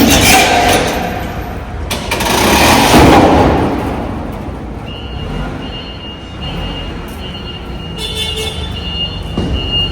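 Heavy vehicle running, with two loud swells of noise in the first few seconds over a steady low rumble, then a steady high whine from about halfway on.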